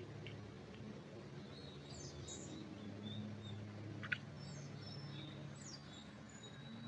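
Small songbirds chirping in a pine forest, with short high chirps and quick sliding notes from about two seconds in, over a low steady hum. A single sharp click about four seconds in is the loudest sound.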